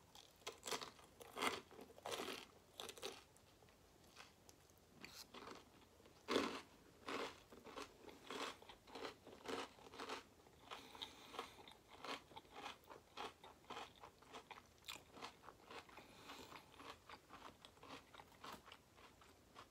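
Close-miked mouth chewing crispy battered fried food: a long run of irregular crunches as the crust is bitten and chewed.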